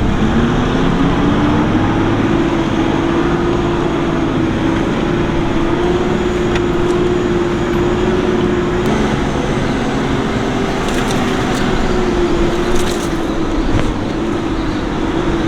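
Toyota Land Cruiser Troop Carrier engine pulling uphill under load on a dune. Its note climbs over the first couple of seconds, then holds steady, with a few light rattles later on.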